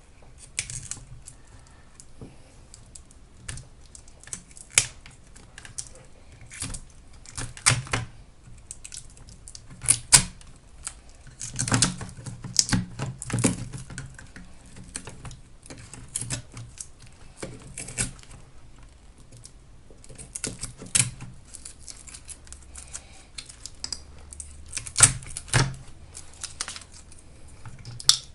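Irregular sharp clicks and snaps of hand tools and parts as a 36 V e-bike battery pack is taken apart, with a busy cluster of clicks about halfway through and another near the end.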